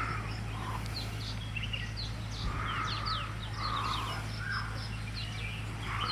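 Small birds chirping: many short, quick, falling notes, with rougher, harsher calls mixed in every second or so, over a steady low hum.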